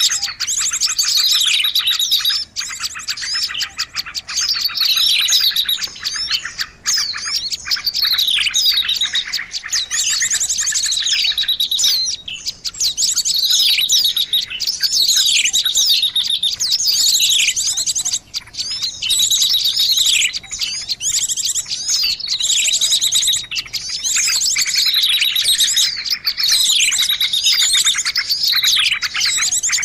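Small songbirds chirping and trilling densely and without pause, with a falling call repeated about every two seconds.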